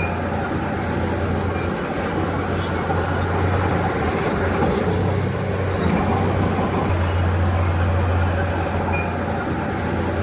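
Heavy diesel earthmoving machinery, most likely the Komatsu D31P bulldozer, running steadily with a constant low engine drone and a rough mechanical noise over it. Faint short high squeaks come and go.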